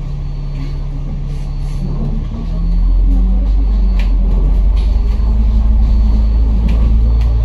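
Bus engine heard from inside the cabin, running steadily, then about two and a half seconds in growing louder and rising in pitch as the bus accelerates.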